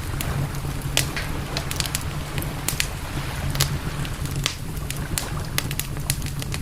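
Campfire crackling, with sharp pops about two or three times a second, the strongest about a second in, over a steady low rumble.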